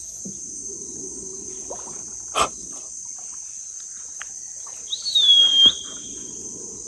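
Red howler monkeys roaring faintly as a deep, low rumble that fades and returns, under a steady high-pitched insect chorus. A sharp knock comes about two and a half seconds in, and a bird gives one loud whistled call that drops in pitch about five seconds in.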